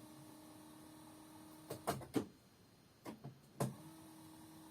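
A quiet pause with a faint steady hum and two small clusters of short clicks and knocks, one about two seconds in and one about three seconds in.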